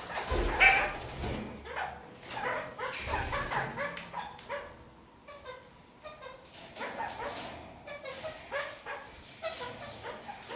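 Red-crowned parakeets (kakariki) calling, a run of short chattering calls with a quieter pause about halfway through.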